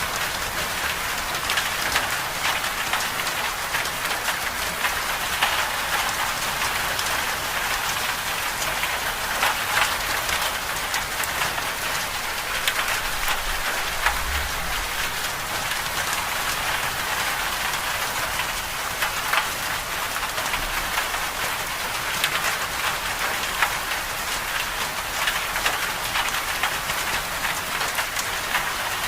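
Steady rain falling on a surface: a dense, even hiss with many small drop ticks. A brief low rumble comes about halfway through.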